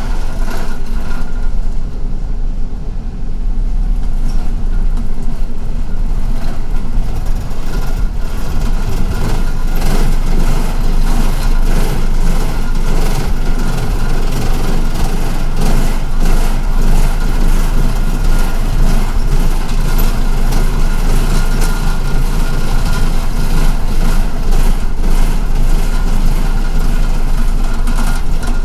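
MTA city transit bus heard from inside the passenger cabin: the engine running under steady road noise, with frequent short clicks and rattles from the bus body. It dips a little about two to four seconds in, then stays loud.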